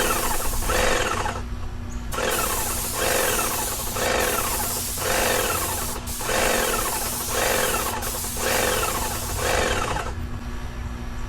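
Paint sprayer spraying a shed: a steady hiss with a surge from the machine about once a second, pausing briefly near the start and stopping about ten seconds in.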